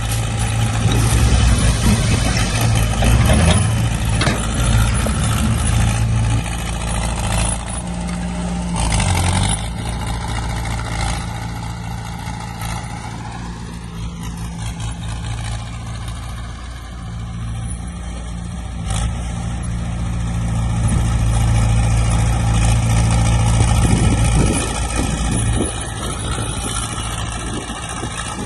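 Heavy diesel earthmoving machinery, dump trucks and a bulldozer, running steadily. The engine pitch rises about halfway through and again near the end.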